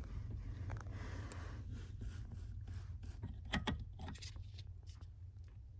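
Faint clicks, knocks and scraping of small plastic parts and wires being handled, over a steady low hum. The clicks cluster about three and a half seconds in.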